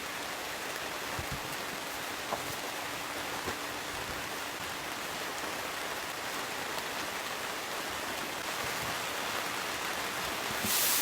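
Steady hiss of heavy rain falling, with a couple of faint taps.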